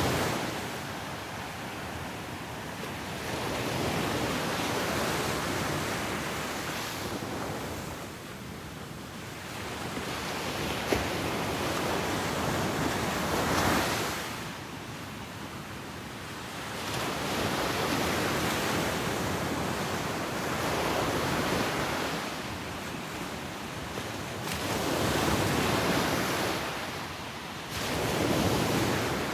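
Ocean waves breaking on a beach, the surf rising and falling in slow swells every few seconds.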